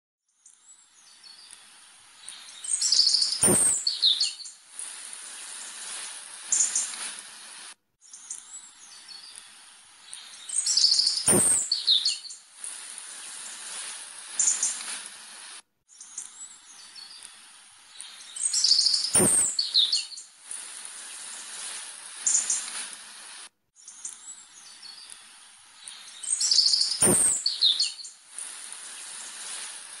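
Bird chirps and short calls over a faint hiss, in a recording about eight seconds long that plays four times over with a brief dropout between repeats; each pass holds one sharp click.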